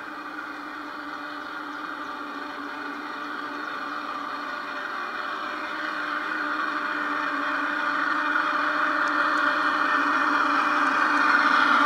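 Garden-railway model train running on track, its motor and gears whirring steadily, getting louder throughout as it approaches.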